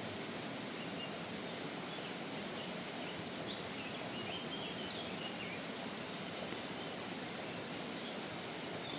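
Steady outdoor background noise, with a few faint bird chirps about three to six seconds in.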